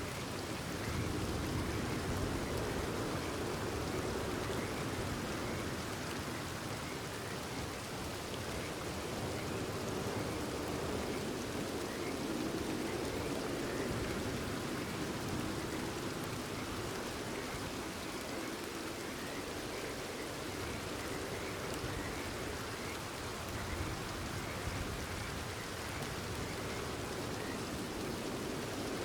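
Steady rain falling, with frogs giving short, repeated calls behind it.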